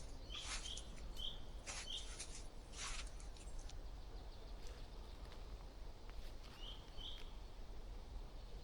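A small bird calling with short high chirps, mostly in pairs, a few near the start and more near the end. Three brief hissing noise bursts in the first three seconds, over a faint steady low rumble.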